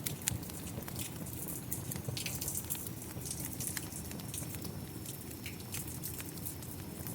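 Wood fire crackling with irregular sharp pops and snaps over the steady hiss of falling rain.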